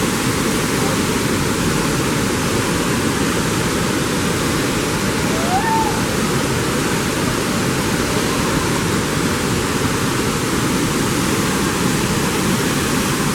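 Waterfall rushing in a steady, even roar of falling water. A brief rising whistle cuts through about halfway.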